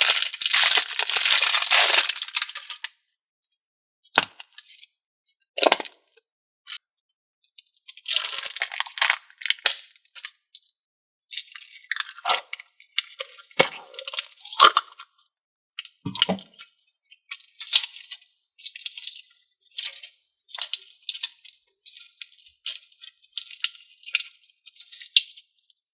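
Thinking putty and its container being handled: a loud crinkly rustle in the first few seconds, then scattered short crackles and clicks.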